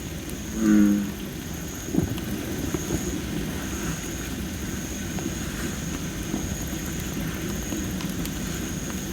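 Dry masaki (Japanese spindle tree) firewood burning in a campfire, with a low steady rumble and a few sharp crackling pops. A bullfrog gives one short, low call about a second in.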